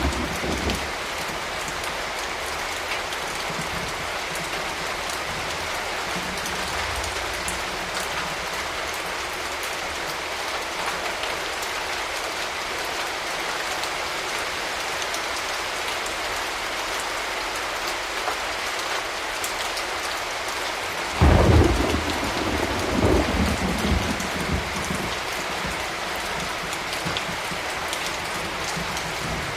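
Steady rain falling, with a clap of thunder about two-thirds of the way through that breaks suddenly and rolls on for a few seconds before fading back into the rain.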